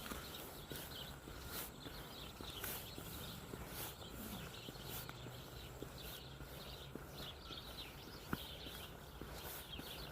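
Footsteps on an outdoor trail, about one step a second, with faint bird chirps in the background.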